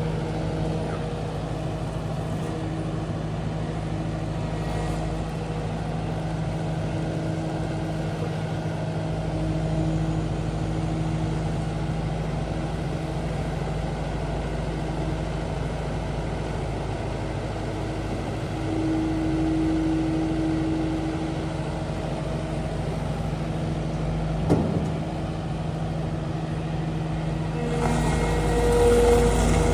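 Kubota SSV75 skid steer's diesel engine running steadily, with one sharp knock about two thirds of the way through. Near the end the engine gets louder and fuller.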